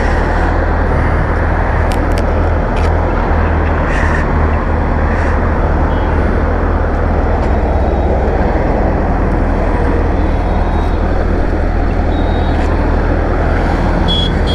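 A motorcycle engine idles steadily under a constant wash of highway traffic noise. A few light clicks in the first few seconds come from riding gloves being handled and put on.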